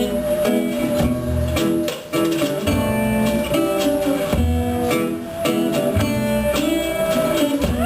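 Live music with strummed and plucked guitar-like strings, and a held, wavering melody line over them.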